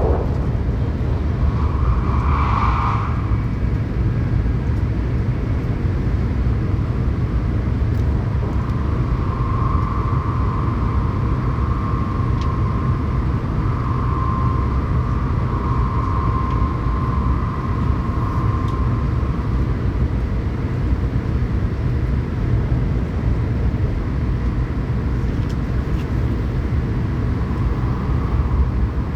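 Tokaido Shinkansen train running at speed, heard from inside the passenger cabin: a steady low rumble. A faint higher tone rises in the middle and fades out again.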